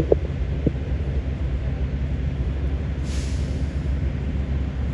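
Steady low mechanical rumble, with a short hiss about three seconds in.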